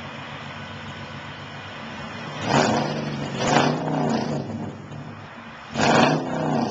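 Infiniti QX56's 5.6-litre V8 with a Stillen dual exhaust and headers idling steadily just after startup, then revved in short throttle blips about four times from a little past two seconds in.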